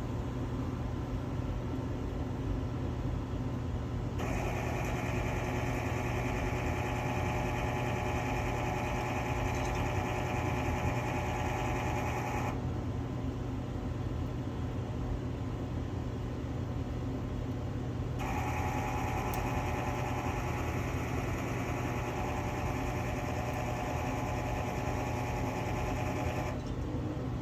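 Quadra-Fire CB-1200 pellet stove's auger feed gear motor running twice, about eight seconds each time, with a loud grinding whine over a steady low hum. The motor's bearing seal has leaked its grease, so the gears are grinding in a dry case and the motor is due for replacement.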